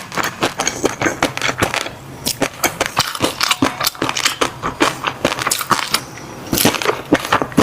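Close-miked chewing of fish roe: a dense run of crisp pops and crunches, several a second, that pauses briefly twice.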